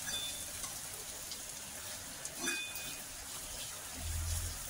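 Potato pieces and crushed peanuts sizzling softly in hot oil in a steel kadhai, a steady crackling hiss, with a low rumble near the end.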